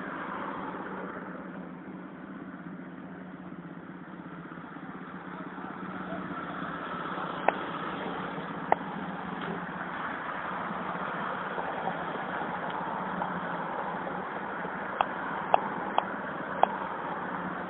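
Street traffic: car and motorcycle engines running and passing at a crossing as a steady hum, which gets louder about a third of the way in. Several short, sharp clicks come twice in the middle and four times near the end.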